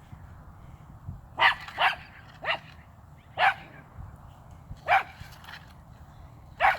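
A dog barking six times at uneven intervals, short sharp barks.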